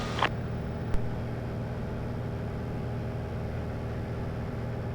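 Light aircraft's engine and propeller running steadily in cruise, heard from inside the cockpit, with a short click about a second in.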